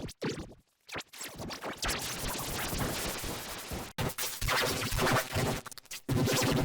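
Digitally distorted, scratchy stuttering audio from an edit-effects remix of cartoon sound. It is a dense crackling noise at first, and about four seconds in it turns into a chopped, pitched, buzzy tone.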